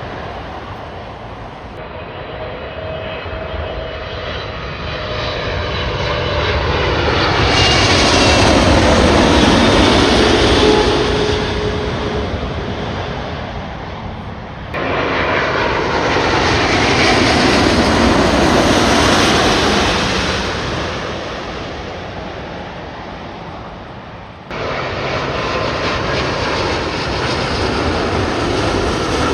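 Jet airliners passing low overhead, each engine roar swelling to a peak and fading with a slowly falling whine. The sound jumps abruptly about 2, 15 and 25 seconds in as one pass gives way to the next.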